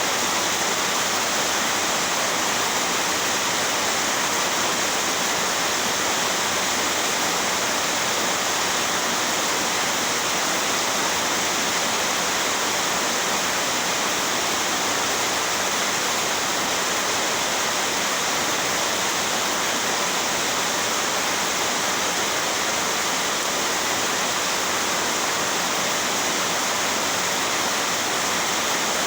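Heavy rain falling in a steady downpour, an even unbroken hiss of water.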